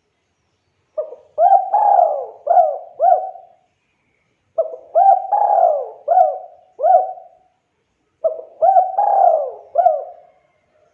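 Spotted dove (tekukur) cooing: three phrases of about five notes each, each phrase lasting a couple of seconds, with short pauses between them.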